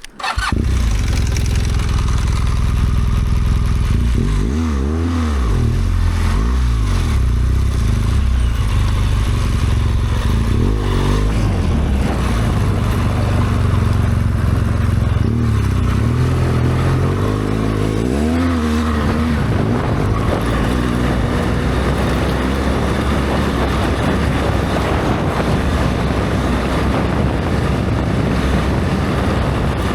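BMW R1200GS Adventure's boxer twin engine running under way, its revs dropping and climbing again several times over a steady rush of noise. The sound starts abruptly right at the beginning.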